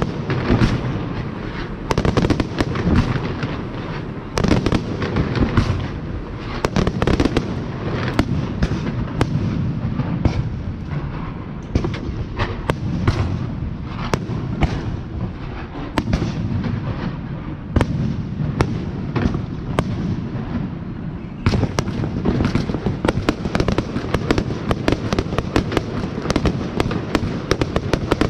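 Fireworks going off in rapid succession: many sharp bangs and pops over a continuous rumble. The bangs get denser about three-quarters of the way through.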